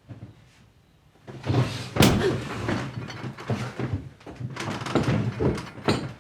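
Several heavy thumps and knocks amid rustling movement. The loudest comes about two seconds in.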